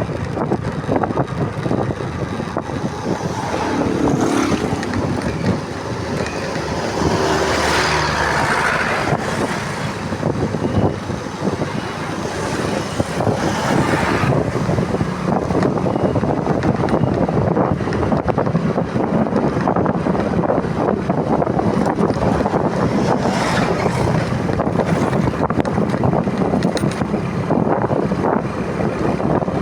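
Motorcycle riding along, its engine running under steady wind buffeting the camera microphone.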